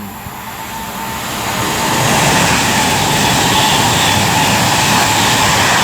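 Avanti West Coast Class 390 Pendolino electric train passing through at speed. A rushing noise of wheels and air builds over the first two seconds, then holds steady and loud.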